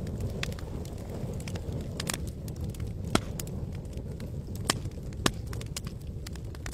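Wood campfire crackling: scattered sharp pops and snaps, three louder ones about three seconds in, just before five seconds and just after five seconds, over a low steady rush.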